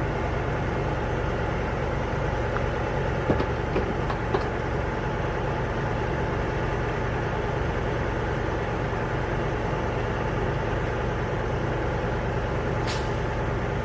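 A vehicle's engine idling with a steady low rumble, with a few faint ticks about three to four seconds in and a sharp click near the end.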